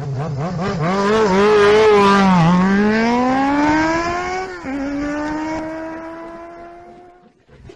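A motorcycle engine revving and accelerating, its pitch climbing, dropping suddenly at a gear change about two-thirds of the way through, then climbing again as it fades away.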